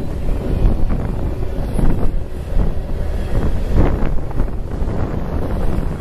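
Freight train cars rolling past on the rails with a low rumble and irregular knocks, under heavy wind noise on the microphone.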